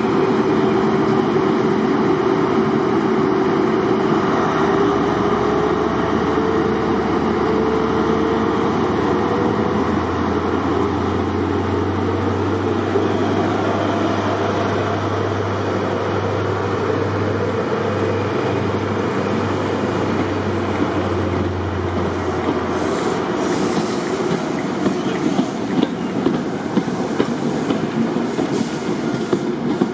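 Diesel locomotive working a train, its engine note loud and steady with a rising whine in the first few seconds. The engine sound drops away after about twenty seconds, and the wheels then clatter over rail joints as the train runs by.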